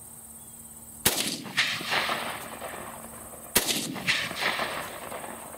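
Two rifle shots from a Norinco SKS, about two and a half seconds apart, each followed about half a second later by a second report and a fading tail.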